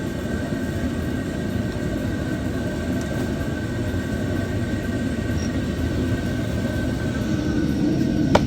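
Steady low background rumble with a faint steady whine over it, growing slightly louder toward the end, and one sharp click near the end.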